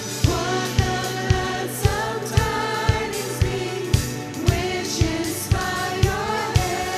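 Live worship music: voices singing a song with a band, over a steady kick-drum beat of about two beats a second.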